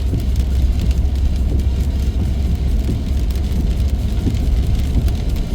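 Car driving on the road, heard from inside the cabin: a steady low rumble of engine and tyres, with faint scattered ticks of rain.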